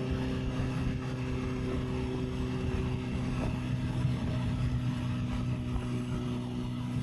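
Honda CB650R's inline-four engine running at a steady speed under way, its pitch holding level, with wind buffeting on the microphone.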